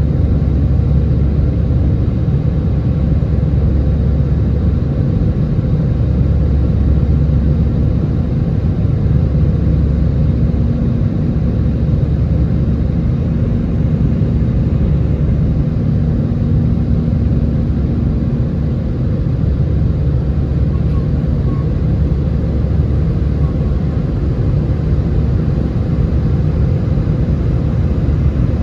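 Airbus A320 jet noise: a loud, steady deep rumble with no rises or breaks, and a faint hum above it that comes and goes several times.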